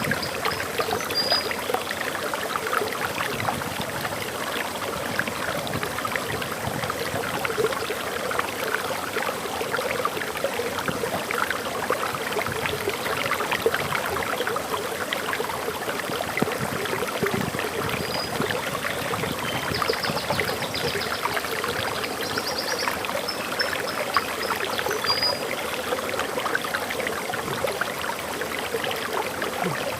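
Water pouring over a small forest waterfall: a steady rush full of fine splashes. A bird gives short high chirps near the start and again several times in the second half.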